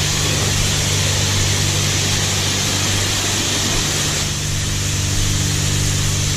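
Self-serve car wash pressure-washer wand spraying the vehicle: a steady, loud hiss of the jet over the hum of the high-pressure pump. The spray sound shifts a little about four seconds in.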